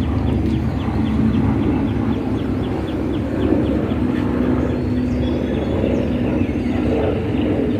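Steady engine and running noise of a moving vehicle. A high, fast ticking repeats about three times a second through the first half, and a few short high chirps come later.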